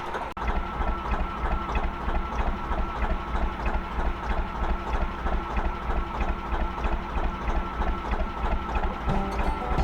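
Gardner 2LW two-cylinder diesel of a narrowboat running steadily under way, with an even low thumping beat of about four pulses a second.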